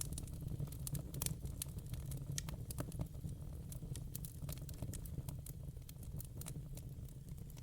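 Wood fire burning in a fireplace: logs crackling with irregular sharp pops and snaps, several a second, over a steady low rumble of the flames.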